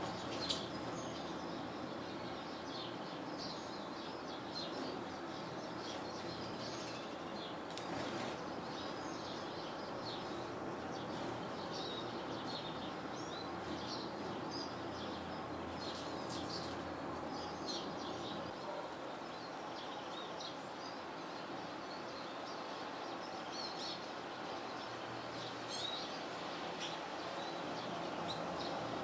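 Small songbirds, such as finches, tits and sparrows, chirping and twittering in many short high calls over a steady background noise, with a few brief sharp clicks.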